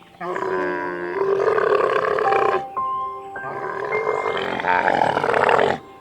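Camel calling: two long, rough, groaning bellows, the first about two and a half seconds long and the second about three, over soft background music.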